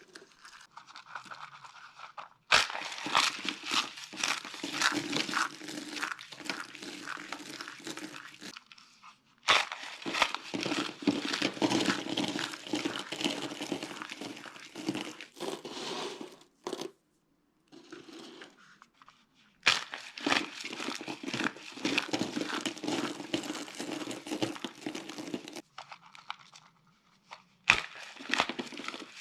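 Dry, brittle soap being crushed and broken, with dense crunching and crackling. There are four long stretches of crunching, each starting with a sharp crack, separated by short, softer pauses.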